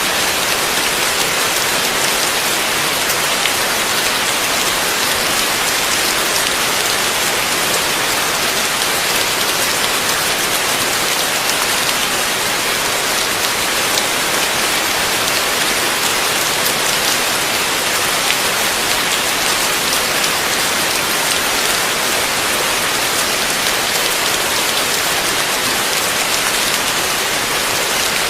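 Heavy rain falling steadily, a dense even hiss with fine drop patter and no thunder.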